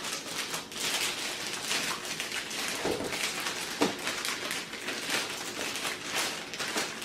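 Packaging being handled as a robot vacuum is lifted out of its box: continuous rustling and crinkling, with two short squeaks about three and four seconds in.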